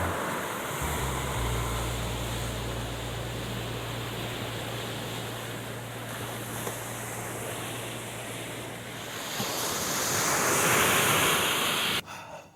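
Waves washing onto the shore, with wind rumbling on the microphone. The surf swells louder about ten seconds in, then cuts off abruptly near the end.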